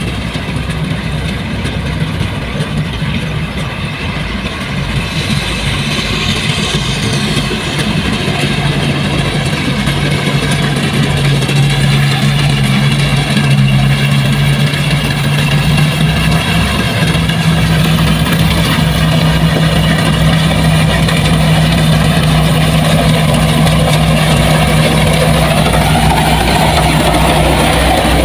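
Engine of heavy farm machinery running steadily, growing a little louder over the first several seconds and then holding an even pitch.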